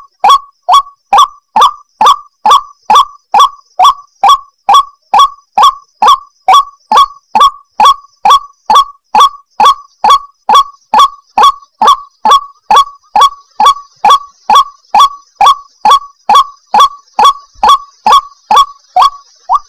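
White-breasted waterhen (ruak-ruak) calling over and over: a loud, short upward-swooping note repeated steadily a little over twice a second.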